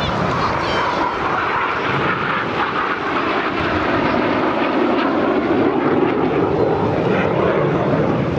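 Red Arrows BAE Hawk T1 jets flying past, their turbofan engines making a loud, continuous jet roar whose pitch slides gradually lower as they pass.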